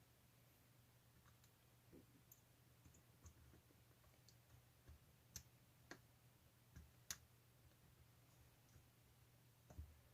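Near silence with faint, irregular clicks and taps, about half a dozen, from a screwdriver and small screws as a motorcycle carburetor's top cover is screwed down.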